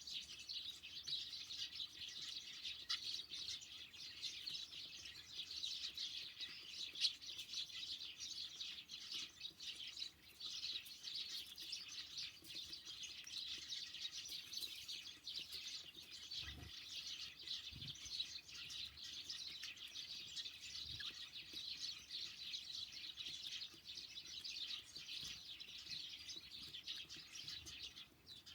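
A flock of small songbirds at a winter feeder chirping and twittering continuously, many short overlapping chirps. A couple of brief low thumps come about halfway through.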